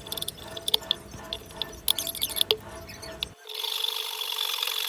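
Kitchen food-preparation sounds: a few light clicks and knocks from handling utensils and bowls. About three and a half seconds in, these give way to a steady rasping rub.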